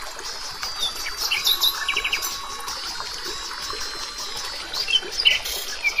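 Small birds chirping with short, high calls scattered through, including a quick run of notes about two seconds in, over a steady hiss.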